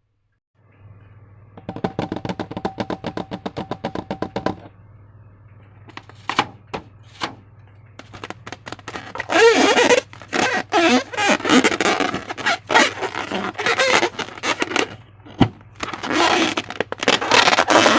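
Hands working slime and balloons: a fast, even run of clicks, then a few separate clicks, then loud crackling with many sharp snaps over a steady low hum.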